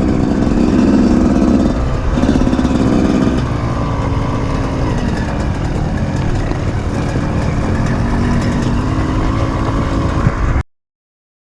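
Off-road motorcycle engine running, louder in the first few seconds and then steadier, before the sound cuts off abruptly near the end.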